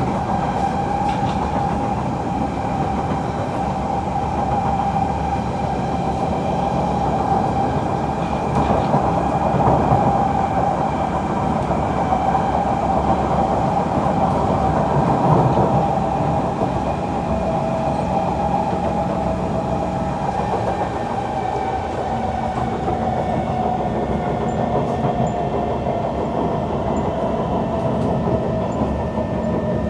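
Kawasaki C151 metro train running between stations, heard from on board: a steady rumble of wheels on track with a clear, steady whine that falls slightly in pitch in the last third.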